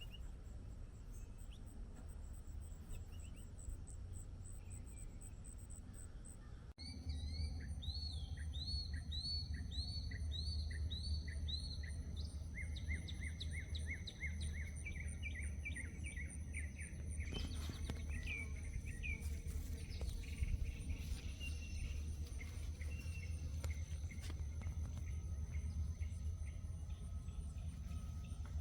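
Wild songbirds singing outdoors: after an abrupt change about seven seconds in, a bird gives quick series of repeated downward-sliding notes. A steady, high insect trill and a low background rumble run underneath.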